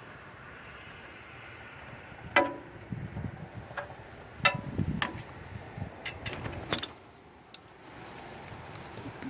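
Metal tools and parts being handled: two loud sharp clanks with a brief ring, then a run of lighter clinks, over a steady background hum.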